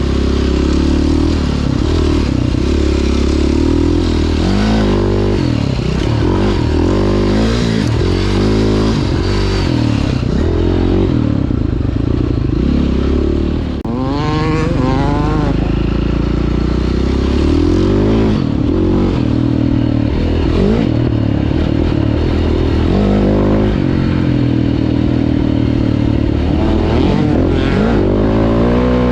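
Dirt bike engine, most likely a 2009 KTM 530 EXC's single-cylinder four-stroke, heard onboard as the rider works the throttle, its pitch rising and falling constantly. About fourteen seconds in the throttle closes briefly, then the engine revs up sharply.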